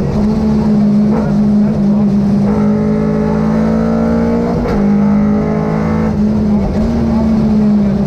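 Rally car engine heard from inside the cockpit, running hard at high revs. Its pitch climbs for a couple of seconds, then breaks sharply about four and a half seconds in at a gear change, and it pulls on again.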